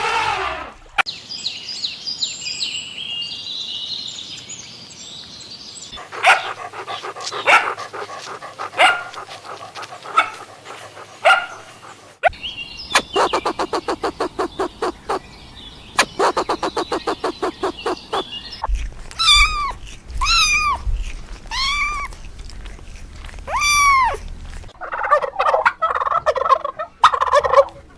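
A string of different animal and bird calls, cut together one after another. High rapid calls come first, then bursts of fast pulsed, rattling calls, then about five separate calls that each rise and fall, and a busier mix of calls near the end.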